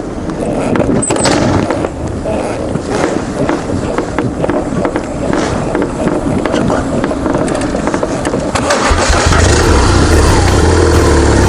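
Scattered clicks and knocks, then about eight and a half seconds in a BMW R1200GS's flat-twin engine starts and settles into a steady idle.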